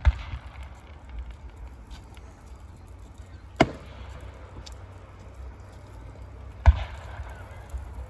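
Three sharp firework bangs about three seconds apart, over a steady low rumble.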